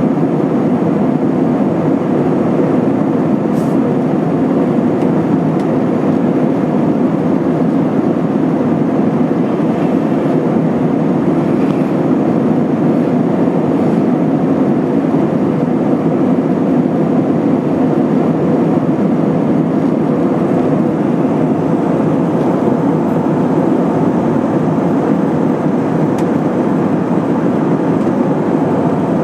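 Steady cabin noise inside an Airbus A320-232 airliner with its IAE V2500 engines running: an even, low rush of engine and airflow noise with no change in level.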